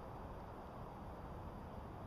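Faint, steady low rumbling background noise of an outdoor night scene, with no distinct events.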